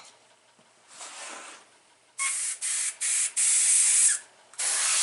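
Airbrush spraying in short bursts of hiss, about five of them starting about two seconds in, as the trigger is pressed and released.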